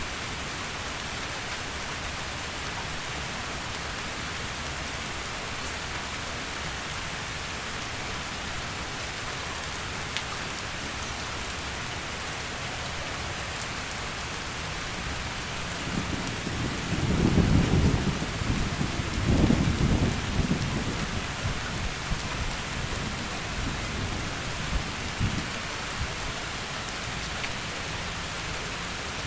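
Heavy rain falling steadily. About halfway through, a roll of thunder rumbles in, swells to two peaks a couple of seconds apart, then trails off over several seconds.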